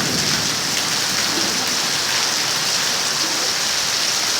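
Heavy rain pouring down steadily: a dense, even hiss with no letting up.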